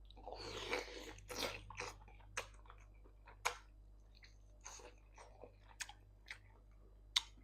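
Close-miked chewing and wet mouth smacks of a person eating vegetable soup: a dense stretch of chewing in the first two seconds, then scattered sharp clicks and smacks.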